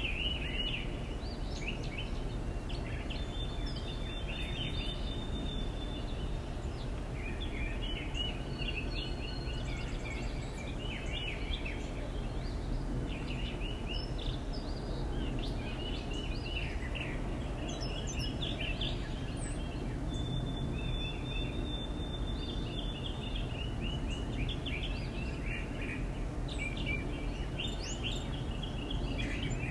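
Small backyard birds chirping and twittering in quick clusters of short notes, with an occasional thin, high whistle, over a steady low background rumble.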